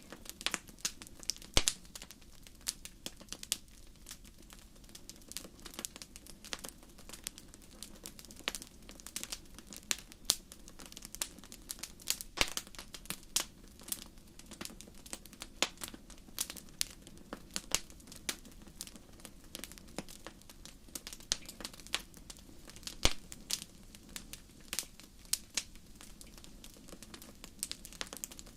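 Fire crackling: irregular sharp pops and snaps, several a second, over a low steady hiss.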